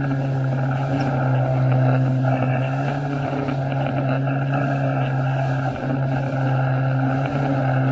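Jet ski engine running at a steady speed, a constant drone over a rush of noise.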